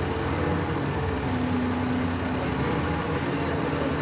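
Excavator's diesel engine running steadily, with a whine that shifts in pitch.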